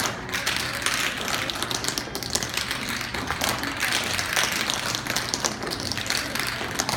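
Tap shoes of a group of dancers tapping on a stage floor: a dense, uneven clatter of quick metal clicks with no music.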